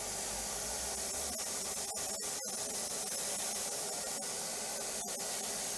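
Steady hiss of a dental handpiece running while a composite restoration is contoured and finished, with a few faint clicks.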